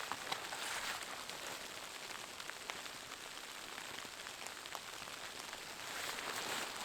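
Steady hiss of falling snow or sleet with scattered light ticks. Crunching steps in snow about a second in and again near the end.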